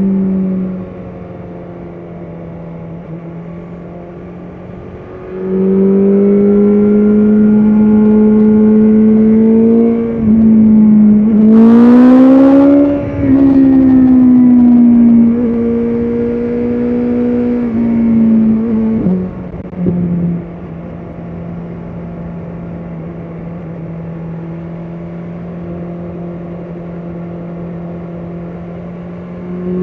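BMW S1000RR inline-four engine under way, its note dropping to a quieter level while the throttle is off, picking up about five seconds in and rising in pitch to a peak around twelve seconds before falling back. Near twenty seconds it drops away with a brief jump in pitch, then holds a lower, quieter steady note until the throttle opens again right at the end.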